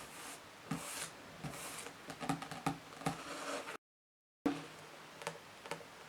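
Fingernails scratching and tapping on books, a rasping scratch mixed with scattered sharp taps. Partway through, the sound cuts out completely for under a second, then comes back with a few light, separate taps.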